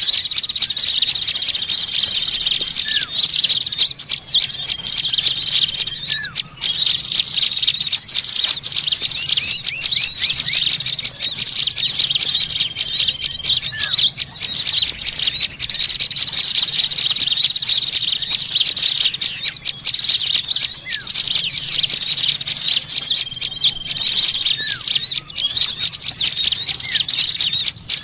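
Dense, noisy chatter of many small birds chirping and twittering at once without a break, a bird-lure (pikat) recording meant to draw small birds in.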